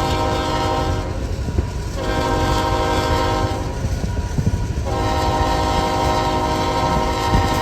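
CSX freight locomotive's multi-note air horn sounding in blasts: one ends about a second in, a second lasts about a second and a half, and a third starts about five seconds in and is held long. A steady low rumble of the moving train runs underneath.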